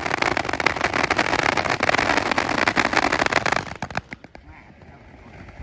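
Consumer fireworks crackling: a rapid, dense run of small sharp pops that stops suddenly a little before four seconds in, with a few last pops after.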